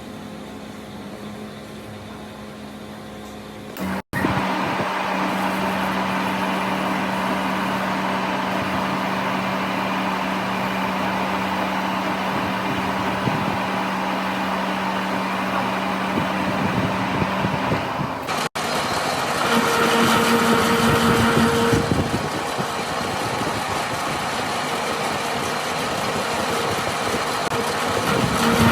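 Metalworking machinery running steadily with a hum, heard in three segments that cut off abruptly and change character at each cut.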